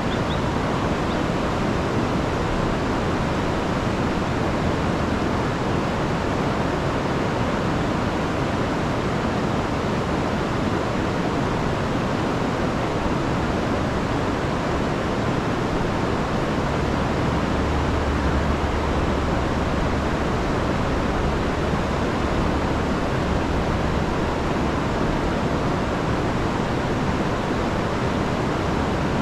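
Rain-swollen river rushing over falls, a steady full roar of water, with a slightly heavier low rumble from a little past halfway.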